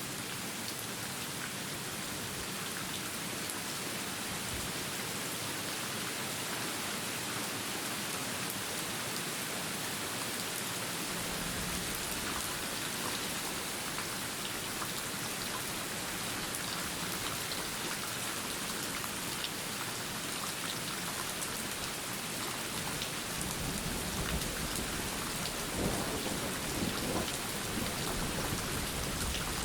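Steady rain falling, with a low rumble of thunder rolling in late, loudest about three-quarters of the way through.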